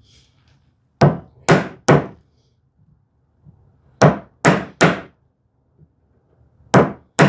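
A chisel being struck to chop a hinge mortise in cherry. There are eight sharp knocks in quick groups of three, three and two, about half a second apart within each group.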